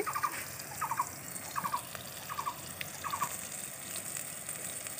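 Thin-sliced eggplant frying in hot mustard oil in an uncovered wok, a steady sizzle. Four short, evenly spaced chirps sound over it from about a second in to about three seconds in.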